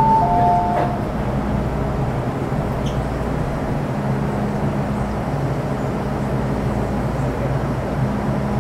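Two-tone door chime of an MTR M-Train, sounding once more in the first second, then a steady low hum from the train's equipment with the train standing at the station.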